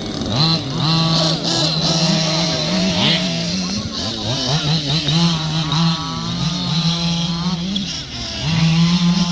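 Several radio-control cars' small engines running together, revving up and down over a steady idling tone, each pitch rising and falling as the cars accelerate and slow around the track.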